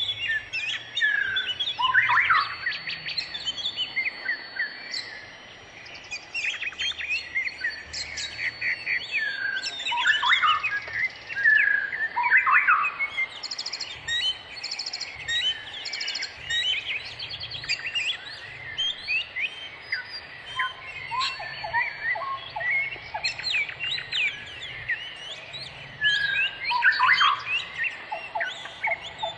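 Many small birds chirping and calling at once, a dense, overlapping chorus of short chirps and quick sweeping notes with no pause.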